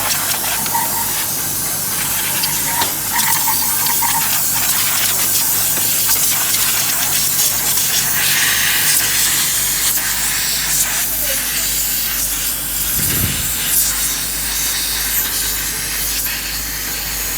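Loud, steady hiss of a pressurised spray, over a low steady hum.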